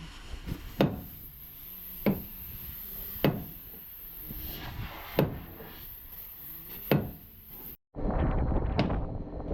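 Five separate hammer blows, about one and a half seconds apart, then a cut to louder, steady workshop noise with a few light clicks.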